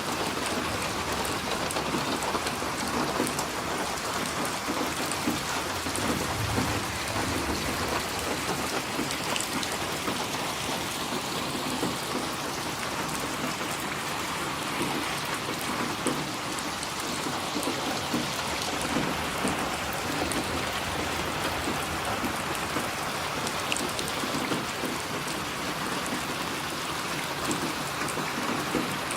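Steady rain pattering down in an even hiss, with a low rumble of distant thunder about six seconds in.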